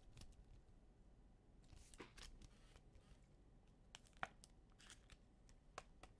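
Faint handling of trading cards: scattered light clicks, with a brief rustling swish about two seconds in.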